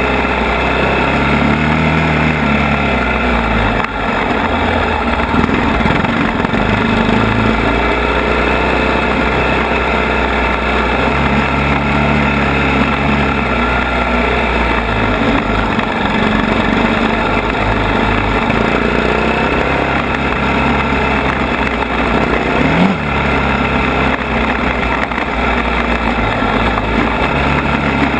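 ATV engine running under way, its revs rising and falling again and again as it is ridden.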